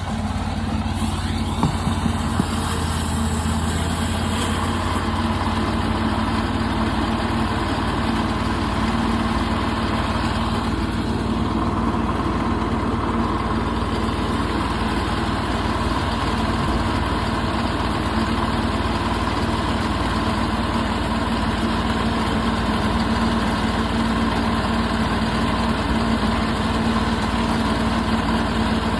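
Portable sawmill running steadily under power, making a cut through a walnut log; the engine note holds even throughout.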